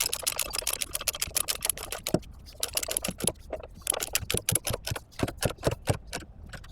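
Steel tie-down chain rattling and clinking as it is handled: a quick run of rattling links for about two seconds, then separate clinks and knocks, some with a dull thud.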